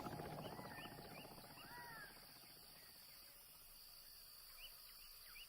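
Faint outdoor nature ambience: a low rumble fades away over the first two seconds, with scattered faint, short animal chirps and squeaks.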